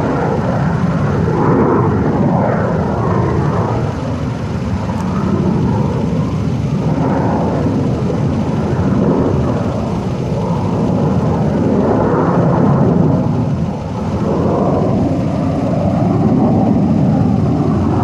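Display aircraft engines roaring overhead, the noise swelling and easing as the planes fly past.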